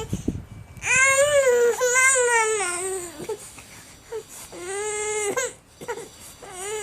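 Baby crying in drawn-out, wavering wails, three in a row, fussing for attention.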